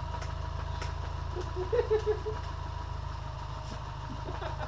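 2001 Subaru Forester's EJ25 flat-four engine idling steadily with a light knock. The owner traces the knock to the crankshaft, the sign of a failing rod bearing.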